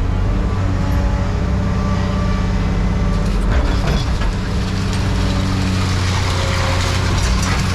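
An engine running steadily at a constant speed, with a few brief knocks over it.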